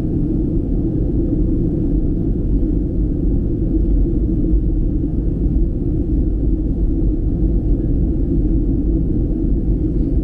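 Steady low rumble of a Southwest Boeing 737 in flight, its engine and airflow noise heard inside the passenger cabin.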